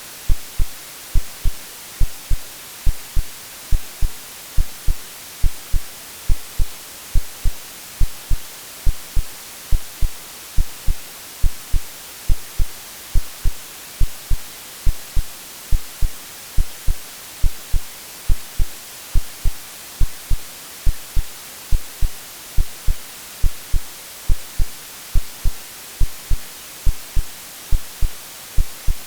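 AI-generated heartbeat sound in an even lub-dub rhythm of paired low thumps, laid over a steady white-noise hiss. It is a womb-like sleep sound for soothing a baby.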